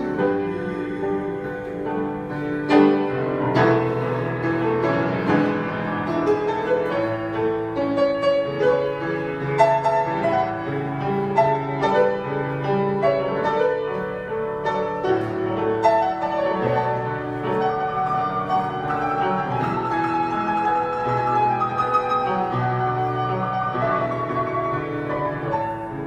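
Instrumental interlude of a gospel song: piano leads with a melody over sustained chords, with a soft string backing.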